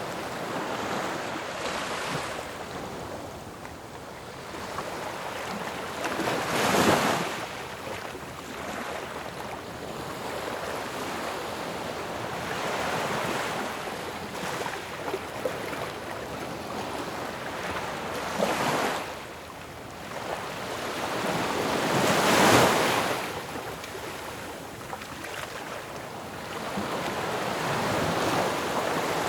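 Ocean waves breaking on a shore: a continuous wash of surf with separate waves swelling and crashing, the loudest about a quarter of the way in and again about three quarters of the way in.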